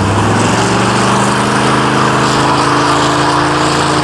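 Car engine running steadily at low revs, its pitch holding nearly level throughout.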